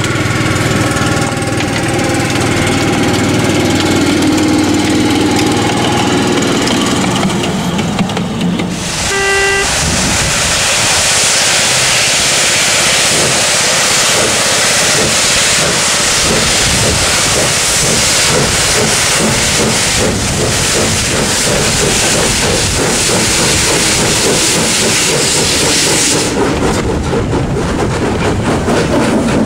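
Small steam tank engine: a steady hum, then a short whistle toot about nine seconds in. A loud hiss of steam follows for about sixteen seconds and stops near the end, leaving a lower rhythmic sound.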